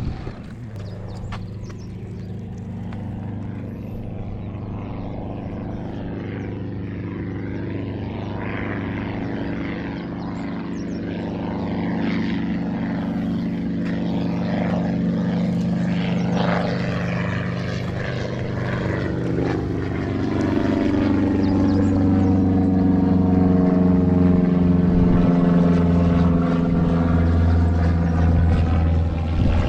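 Aircraft engine drone that grows steadily louder, a low steady hum with a sweeping, phasing sheen in the upper sound near the end as the aircraft comes closer.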